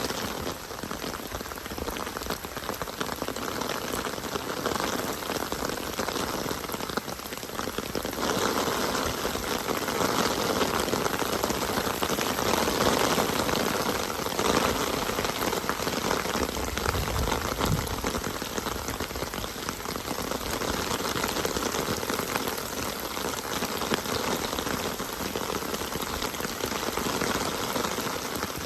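Steady rain falling, an even, dense hiss of drops pattering on surfaces.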